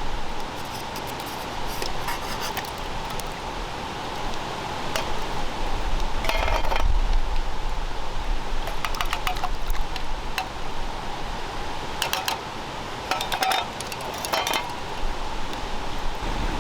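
Metal cookware and utensils clinking in short scattered bursts, several times, over a steady background hiss.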